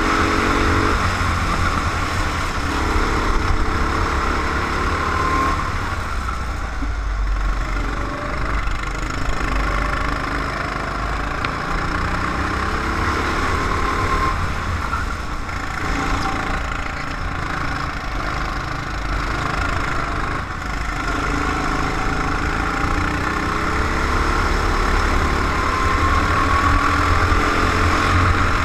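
Go-kart engine heard from on board, its pitch climbing and dropping again every few seconds as the kart accelerates and slows through the lap. A steady low rumble runs underneath.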